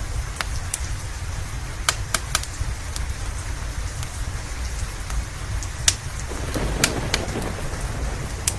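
Steady rain on a cabin roof with a low, continuous rumble underneath. Scattered sharp pops and crackles from a fireplace run through it, and a rougher swell of noise rises about six seconds in.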